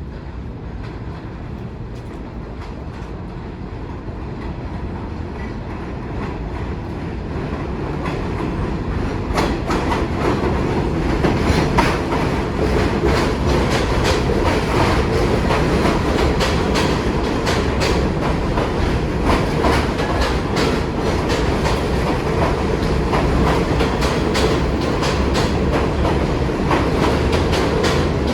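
An R46 subway train, running not in service, approaching and growing louder over the first ten seconds. It then runs close by, its wheels clattering steadily over the rail joints.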